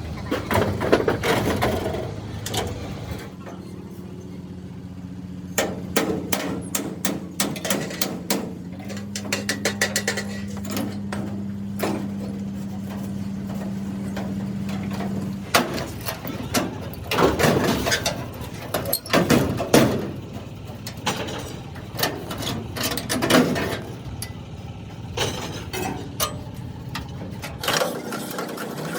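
Metalworking workshop noise: irregular knocks and clatter of tools on metal, with a steady machine hum for several seconds in the first half.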